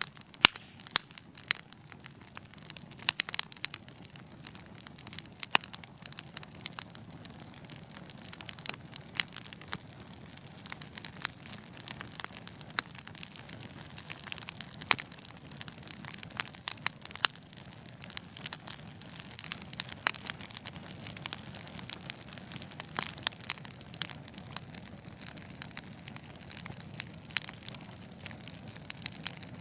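Wood fire burning in a fireplace: irregular crackles and sharp pops over a soft steady hiss and low rumble of the flames.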